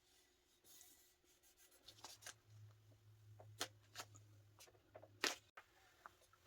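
Faint scattered clicks and small handling noises, with a low steady hum for a few seconds in the middle.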